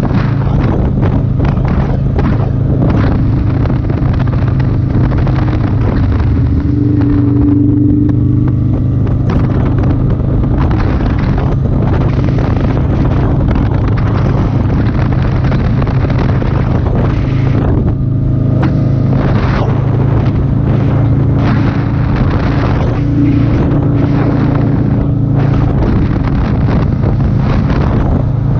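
Motorcycle engine running steadily at road speed, its pitch shifting briefly about seven seconds in and again near twenty-three seconds, under heavy wind buffeting on the microphone.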